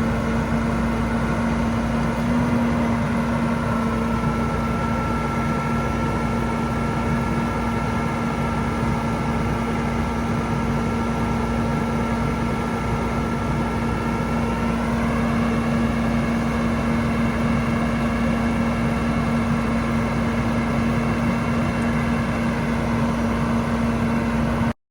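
Kenworth T370 truck's PACCAR PX-8 diesel engine running steadily at idle, with a slight rise in pitch in its higher tones about fifteen seconds in.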